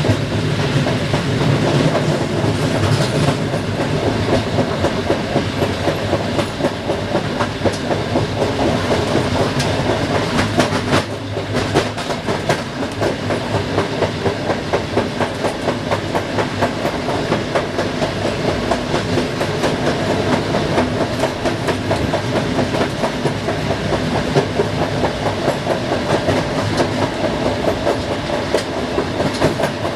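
A passenger train running on the rails, with a steady, rapid clatter of wheels on track and rumble from the coach. There is a brief dip in loudness about eleven seconds in.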